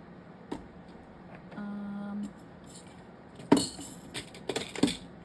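Small hard objects rattling and clicking as craft supplies are rummaged through and handled on a desk, with a burst of jingly clicks about three and a half seconds in. A short steady hum is heard briefly near the middle.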